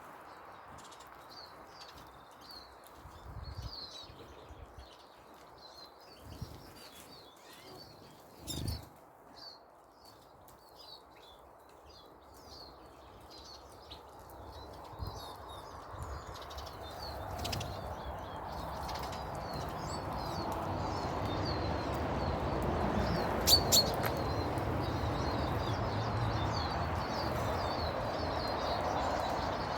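Garden birds chirping over and over with short high calls throughout. A broad rushing noise swells in the second half, with a couple of sharp clicks along the way.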